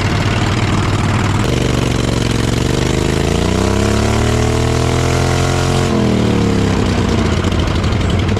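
Vehicle engine running at a steady idle, then revving up slowly from about a second and a half in, holding high for a couple of seconds and dropping back down near six seconds.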